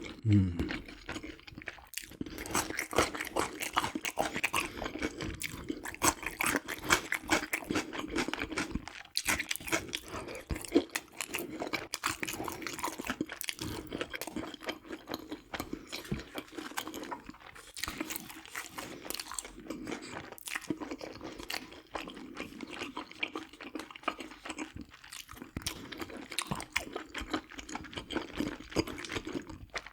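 Close-miked chewing of crispy boneless fried chicken: a continuous run of crunching bites and chews.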